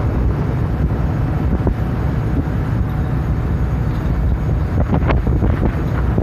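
Steady low rumble of a car ferry underway, with wind buffeting the microphone.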